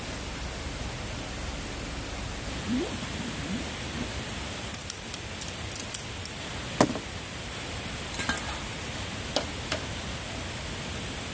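A steady hiss with scattered light clicks and clinks, and one sharper knock near the middle.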